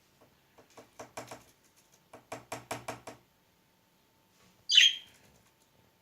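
Two short runs of quick, rapid knocks: a budgerigar pecking and knocking at a small toy ball. Near the end, one loud, sharp budgie chirp.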